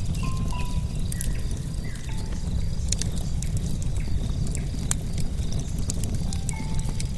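Bonfire of logs burning, crackling with frequent irregular sharp pops over a low steady rumble. A few faint, short high notes sound now and then over the fire.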